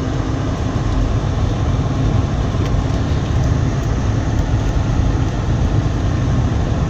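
Car driving on an unploughed snowy road: a steady low engine and road rumble, with a faint hum that fades out about five seconds in.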